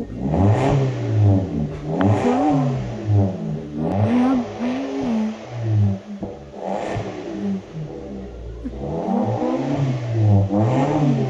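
Vauxhall Agila's exhaust with the back box removed, the engine revved in repeated blips, its pitch rising and falling with each one. The tone is deep.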